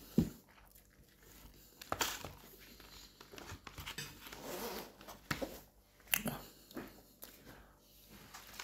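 A person chewing a mouthful of chicken soup close to the microphone, quietly, with scattered short mouth clicks and lip smacks.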